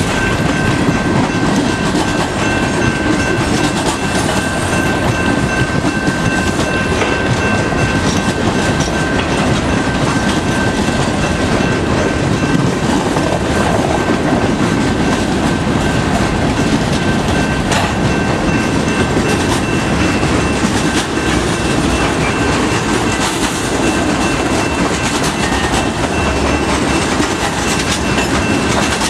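Freight train cars rolling steadily past: the rumble and clickety-clack of steel wheels on the rails, with a thin, steady high-pitched tone over it.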